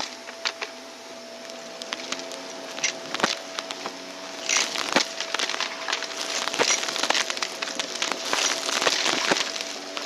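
Vacuum cleaner running with a steady whine while its brush roll picks up dry debris, making a dense, irregular crackling crunch.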